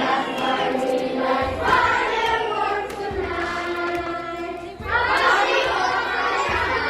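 A children's choir singing in unison over a backing track, with a low bass note pulsing about every second and a half.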